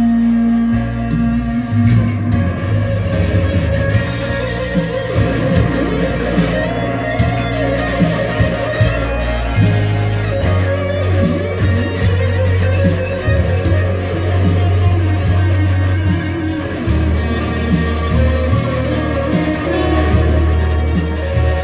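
V-shaped electric guitar with a newly bolted-on neck being played, picked notes and chords over low bass notes that change every second or two.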